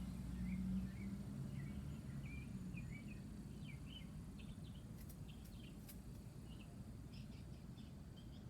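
Small birds chirping, with many short high notes scattered through, over a low steady rumble; a few sharp clicks come about five to six seconds in.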